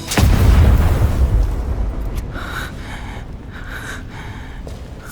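Cartoon explosion sound effect: a sudden blast just after the start, followed by a deep rumble that fades over the next few seconds.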